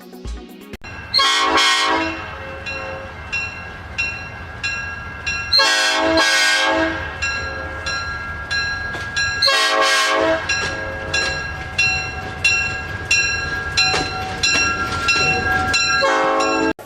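Toy train's electronic sound effects: four train-horn blasts, with a bell ringing about twice a second between them over a low, steady rumble.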